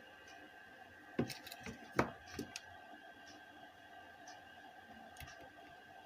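A handful of sharp clicks and knocks, about a second into a steady faint electrical hum, from test leads being connected to a car stereo on the bench. No audio comes through the test speaker: the stereo's audio amplifier IC is dead.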